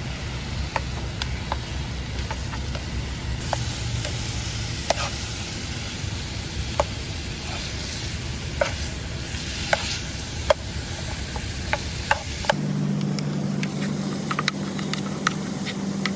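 Thin-sliced Steak-umm beef sizzling and frying in its own grease in a pan on a butane stove, with frequent sharp clicks and scrapes of a utensil stirring it in the pan. About three seconds before the end a steady low hum comes in.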